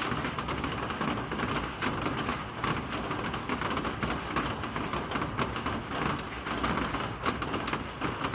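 Steady rain falling, with many separate drop hits heard over an even hiss.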